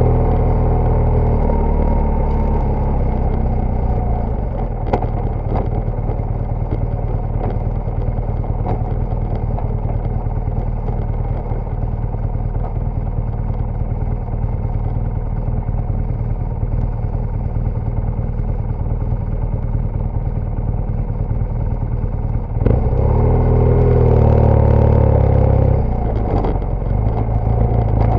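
BMW GS Adventure motorcycle engine running as the bike is ridden off road, with a few sharp knocks. About 23 seconds in the engine grows louder for a few seconds, then drops back.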